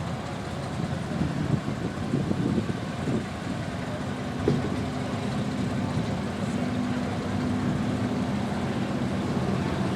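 An engine running: loud and uneven for the first few seconds, then settling into a steady hum from about four seconds in.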